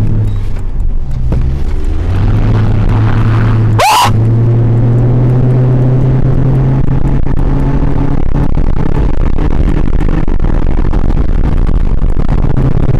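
Car engine droning loudly inside the cabin as the car pulls away and accelerates, its pitch climbing in steps. About four seconds in, a short rising whoop cuts through once.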